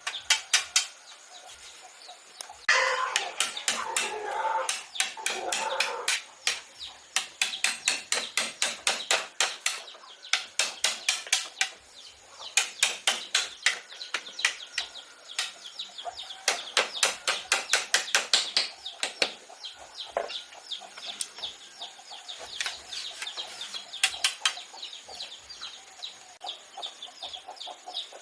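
Birds chirping in rapid trains of short, high calls, several a second, with a lower, fuller calling sound for a few seconds about three seconds in.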